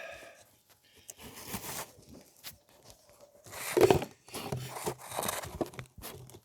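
Handling noise of the camera being adjusted and propped into position: irregular rustling and scraping close to the microphone with a few short knocks, loudest about four seconds in.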